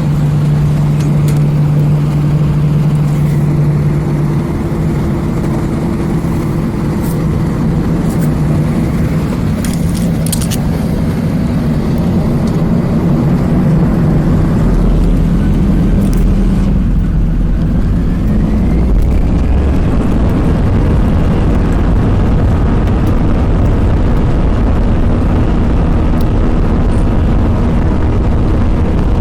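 Airbus A320's jet engines running at takeoff power during the takeoff roll, heard from inside the cabin as a loud steady noise. A deep low rumble comes in about halfway through.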